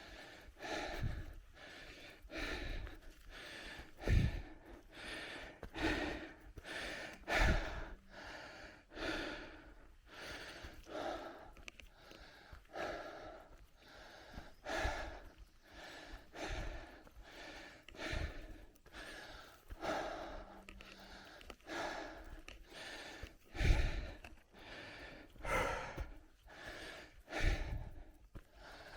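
A cyclist breathing hard and rhythmically while pedalling, about one loud breath every second or so, with a few short low thumps mixed in.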